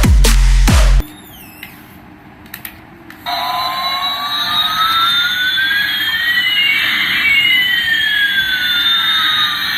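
Electronic jet-engine sound effect: a hissing roar with one whine slowly rising while another slowly falls, the two crossing about halfway through. It starts about three seconds in, after a short quiet stretch with a few warbling chirps and clicks.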